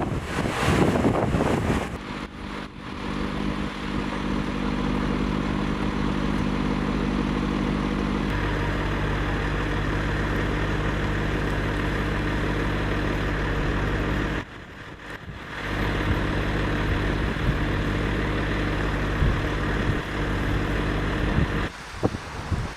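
Wind buffeting the microphone for about two seconds, then a steady engine hum whose pitch shifts about eight seconds in. The hum drops out for a second past the middle and stops shortly before the end.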